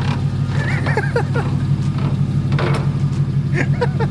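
C5 Corvette's 5.7 L LS1 V8 idling steadily through long-tube headers, X-pipe and open exhaust with the mufflers removed, a deep even pulsing note as the car creeps slowly down off ramps.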